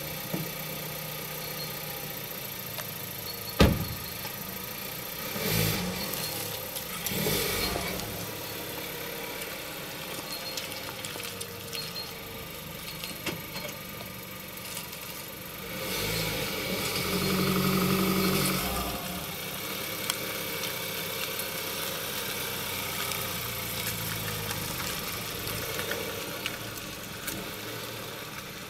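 A Volkswagen Golf's engine running steadily, with one sharp knock about three and a half seconds in. The engine swells louder for a few seconds past the middle as the car pulls away.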